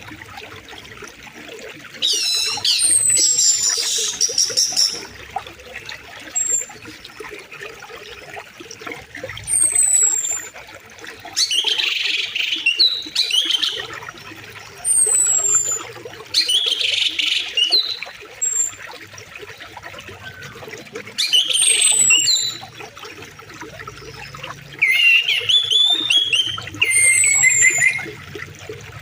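River water flowing steadily, with birds calling over it again and again: short high down-slurred whistles and louder bursts of chirping every few seconds.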